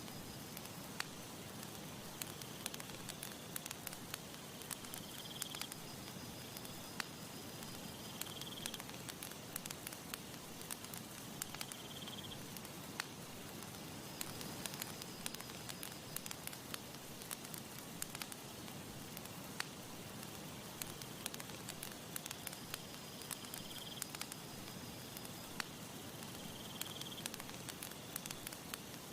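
Campfire crackling, with frequent sharp pops from the burning wood over a soft, steady rush of breeze. A faint, short, high call rises every few seconds, and a thin, higher note is held for a few seconds at a time.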